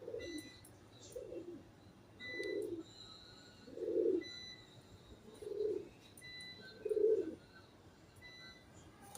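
Pigeon cooing: a series of six soft, low coos about one and a half seconds apart. Faint short high-pitched bird notes are heard between them.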